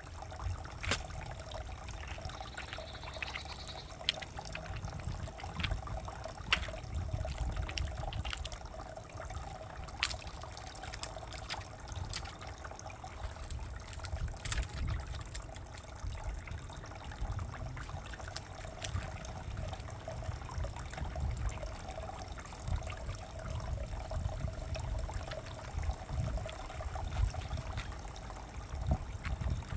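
Water trickling steadily, with scattered sharp clicks.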